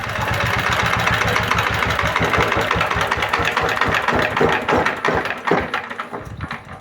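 A 20 hp horizontal single-cylinder diesel engine running with a rapid, even knock of firing beats. In the last couple of seconds the beats spread out and fade.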